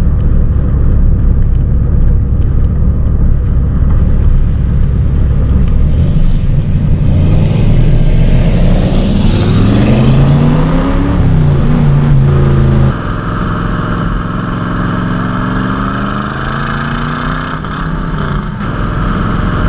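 Cobra roadster's V8 running under way through side exhaust pipes. It drones steadily at first, then revs up and back down over the middle seconds. After a sudden change about two-thirds through, it pulls with its pitch climbing slowly.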